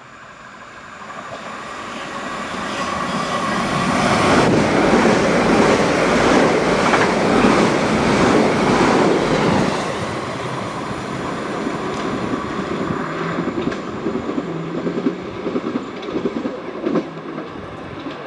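A Bombardier Electrostar electric multiple unit passes by. It grows louder as it approaches and is loudest for several seconds as it goes past, then fades, with wheels clicking over rail joints as it moves away.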